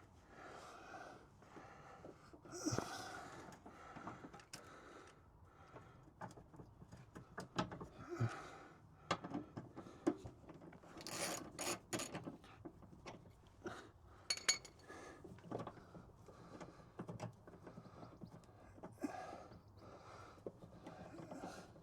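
A man breathing hard and panting with effort while working seized tank bolts loose by hand with a spanner, with scattered sharp metal clinks and knocks from the tools.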